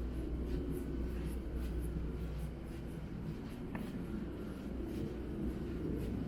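Footsteps on wet pavement, a soft scratchy step roughly every half second, over a steady low city rumble.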